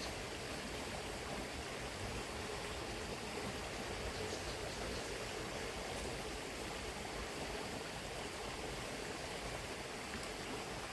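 Steady rushing of a shallow river flowing over its bed, with an occasional faint click.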